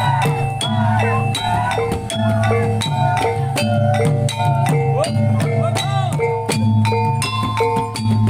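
Reog accompaniment music: struck metal notes repeating in a steady rhythm over deep sustained gong-like tones, with a wavering melody line above.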